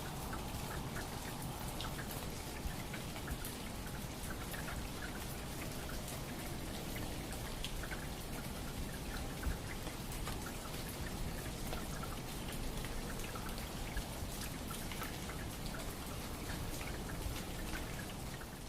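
Steady, dense patter of water drops, like rain falling on a surface.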